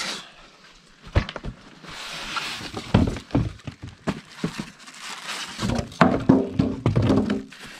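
Unboxing handling: cardboard box and packaging being pulled and rustled, with a few sharp knocks as the parts are set down.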